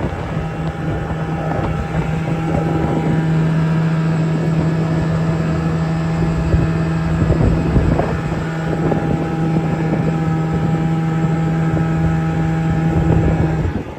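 Snowmobile engine running steadily under way, one constant pitch with wind noise on the microphone; it cuts off near the end.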